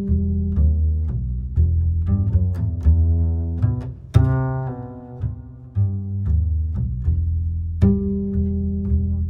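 Background music led by low strings: a bass line of plucked and bowed notes changing about every half second to a second, with a stronger accented note about four seconds in.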